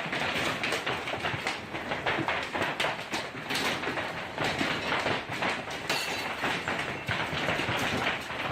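Golf-ball-sized hail pelting down, a dense steady clatter of countless separate impacts.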